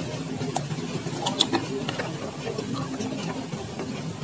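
Close-up chewing of a bite of sate aci, a chewy tapioca-starch skewer, with irregular wet mouth clicks and smacks. The sharpest click comes about a second and a half in, over a steady low hum.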